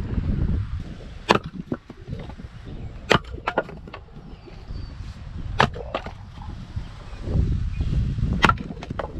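Fiskars X25 splitting axe chopping ash wood: four sharp strikes, one every two to three seconds, each followed by a few lighter knocks.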